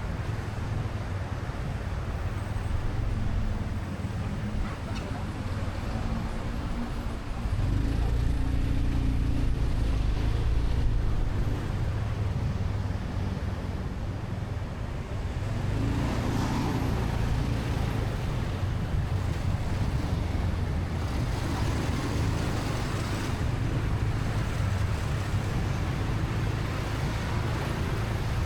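Motorcycle engine running under way in city traffic, with steady road and traffic noise. It swells louder from about eight to eleven seconds in, and its pitch shifts a few times as the bike speeds up and slows.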